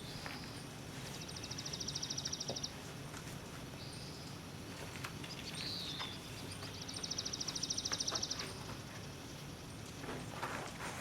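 A songbird singing twice: a high slurred whistle followed by a rapid, even, high trill about a second and a half long, over a steady outdoor hiss.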